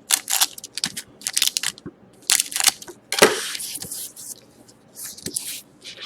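Foil trading-card pack wrappers crinkling and tearing as packs are handled and opened, an irregular run of short crackles with a louder stretch about halfway through.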